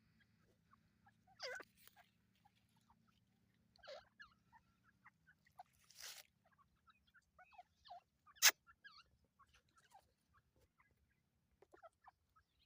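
Teetar (francolins) giving soft, short, scattered chirps and calls, with a few sharp clicks in between, the loudest about two-thirds of the way through.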